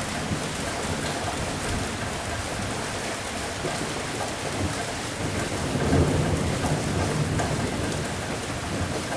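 Steady heavy rain falling on a surface. A low roll of thunder swells about six seconds in and then fades.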